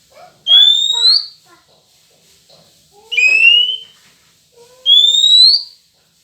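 Kacer (oriental magpie-robin) lure whistle: three loud rising whistled notes, each under a second long and spaced about two seconds apart.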